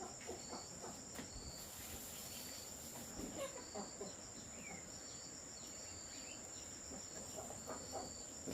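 Insects trilling in a steady, high-pitched drone, with a second insect's short pulsed calls repeating lower down and a few faint knocks.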